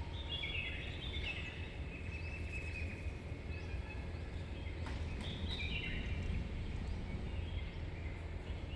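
A small bird singing: two runs of short high chirps, each run stepping down in pitch, over a steady low outdoor rumble.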